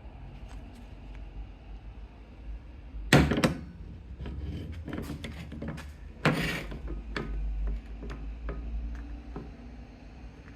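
Workshop handling noise from tools and engine parts being moved and set down: two loud knocks about three seconds apart among lighter clicks and taps.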